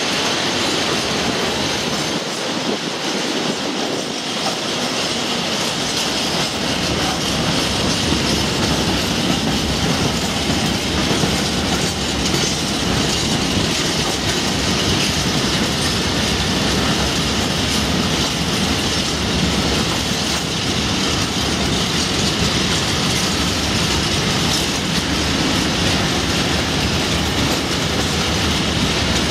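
Freight train of covered steel-coil wagons rolling steadily past, the sound of its wagon wheels running on the rails.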